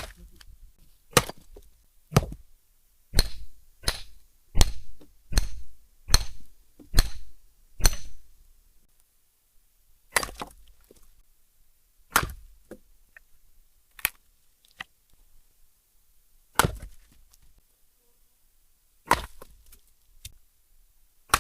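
Axe blows splitting firewood: a quick run of about nine sharp strikes, each under a second apart, then slower single strikes every two seconds or so.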